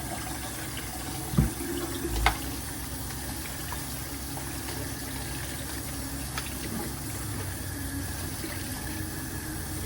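A steady rush of water, with two short knocks about one and a half and two and a half seconds in.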